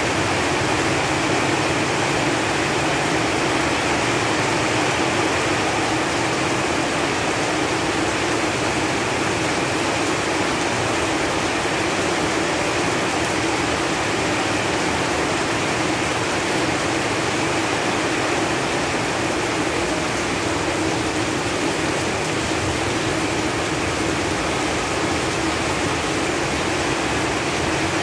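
Steady rain falling on leaves: an even, unbroken hiss of many drops with no single drops standing out.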